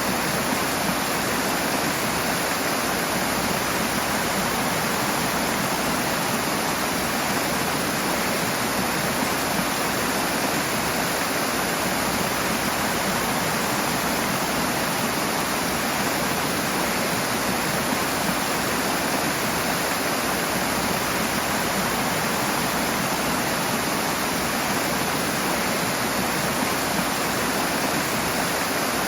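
Rushing water, a steady, even roar of fast-flowing water with no breaks or separate splashes.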